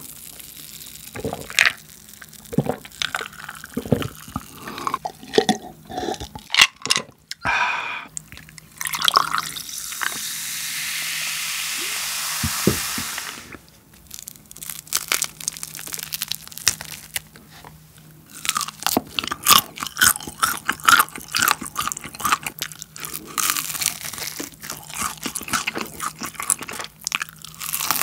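Crispy BHC Bburinkle fried chicken being bitten and chewed close to the microphone, with dense rapid crunching in the second half. A steady hiss lasts a few seconds midway.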